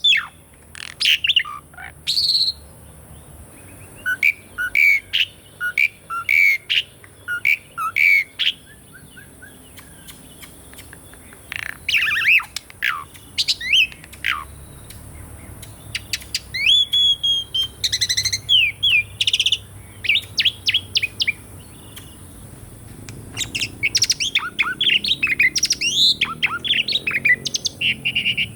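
Jalak suren (pied starling) singing: phrases of chirps, whistled glides and fast chattering notes, each lasting a few seconds, separated by short pauses.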